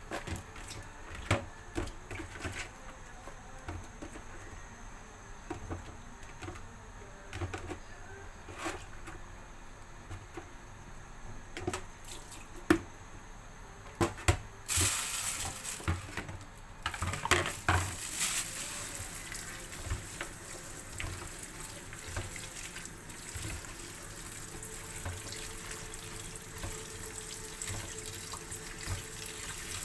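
A pot of chicken soup coming to a boil, bubbling and hissing steadily from about halfway through, after a stretch of small clicks and knocks.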